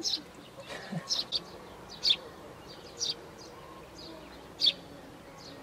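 A small songbird chirping repeatedly: short, sharp, high chirps that drop in pitch, about one a second, the loudest near the middle and the latest a little past the middle.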